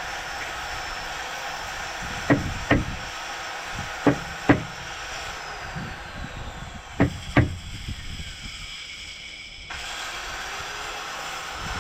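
Six hammer blows in three quick pairs, knocking a stubborn part of a corn head further into place.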